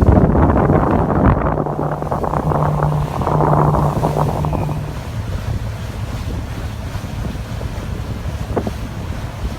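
Wind buffeting the microphone on a moving boat, over the boat's motor and rushing water. The buffeting is heavy at first and eases about five seconds in.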